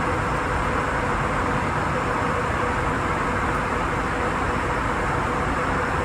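Steady airliner cabin noise in flight: an even rush of airflow and engine drone with a faint steady hum running through it.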